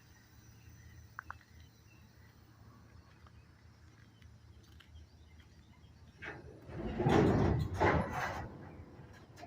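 Freight train couplers clanking as the slack runs in, a cluster of heavy clunks starting about six seconds in after a few quiet seconds.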